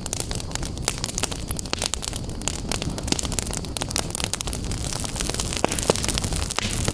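Wood fire in a fireplace crackling, with many small sharp pops and snaps coming irregularly several times a second over the low, steady rush of the flames.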